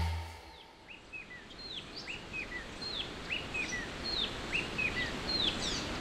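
A bird singing a short phrase over and over, about once every second and a quarter: one high downslurred whistle, then three quick falling chirps, heard over a faint steady outdoor hiss. The music's last low note dies away in the first half second.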